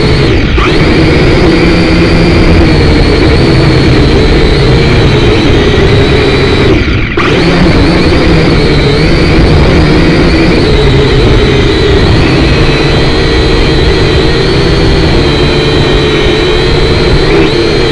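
Syma X5C quadcopter's small electric motors and propellers whining steadily, dipping briefly about half a second in and again about 7 s in, under heavy wind noise on the microphone.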